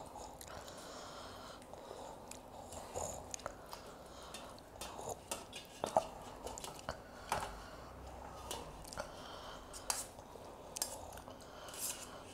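Close-up chewing and mouth sounds of eating rice and chicken curry by hand, with scattered sharp clicks of a steel spoon against a steel bowl and plates, the loudest about six seconds in.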